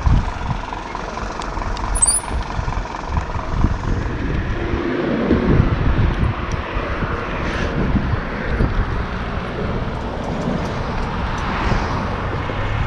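Road traffic: a steady rumble of vehicles on the road, with a few louder pass-bys about five, seven and a half, and eleven and a half seconds in.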